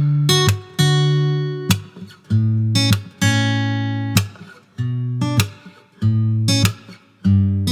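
Acoustic guitar music: chords struck one after another, each left to ring and fade before the next.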